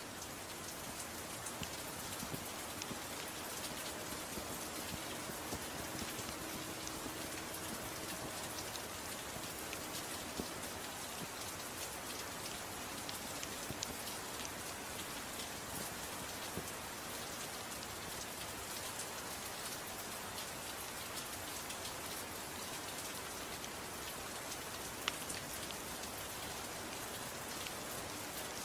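Gentle rain falling steadily: an even hiss flecked with many small sharp ticks.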